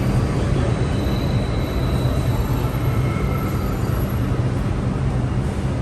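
New York City subway train running, heard from inside the car: a steady rumble with a few faint high tones over it.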